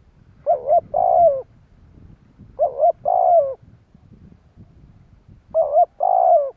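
Spotted dove cooing: three phrases about two and a half seconds apart. Each is a quick two-note 'cu-cu' followed by a longer coo that falls in pitch at its end.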